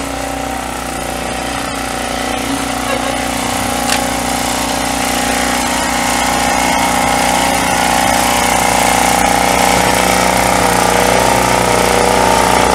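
Small engine running steadily, growing gradually louder.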